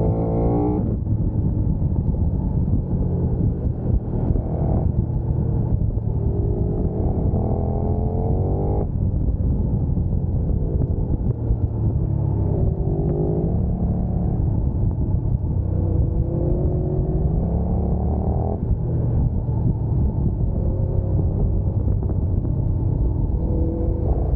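Motorcycle engine accelerating hard and shifting up through the gears, over a steady low rumble. The pitch climbs and then drops sharply at each shift, about every four to five seconds.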